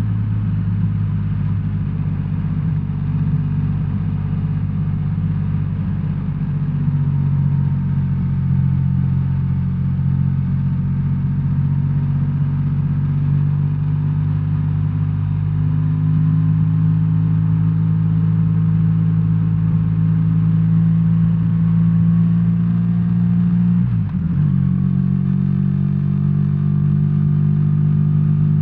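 BMW R1300R's boxer-twin engine running steadily under way, recorded from the rider's seat. Its pitch rises a little about seven seconds in and again near sixteen seconds, with a short dip in level and pitch about twenty-four seconds in.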